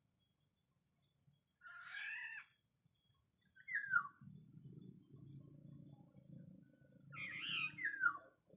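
Black-naped oriole calls: short, descending, whistled notes about two, four and seven seconds in. The last is a pair of overlapping calls.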